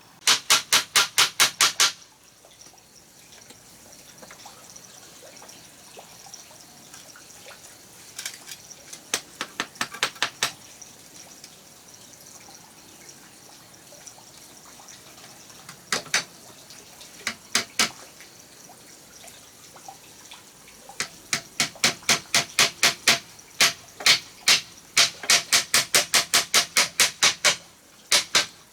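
Quick runs of sharp knocks, about five a second: a burst at the start, a few short clusters in the middle, and a long run from about 21 seconds to near the end.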